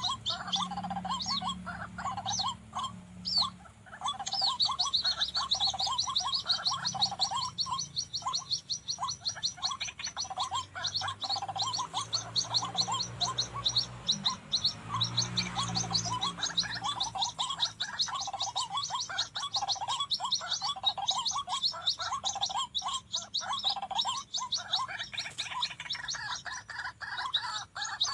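White-breasted waterhens calling in long runs of fast repeated notes, the calls used in luring a wild bird to the decoy and snare. A faster, higher series of notes joins about four seconds in.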